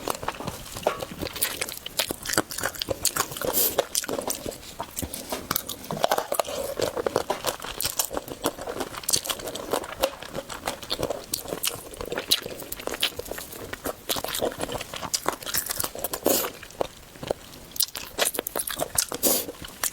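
A person biting and chewing food close to the microphone, with many irregular crunchy crackles and wet mouth clicks.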